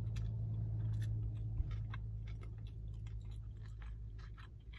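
Close-up chewing of a mouthful of sushi roll: irregular soft mouth clicks and smacks, over a steady low hum.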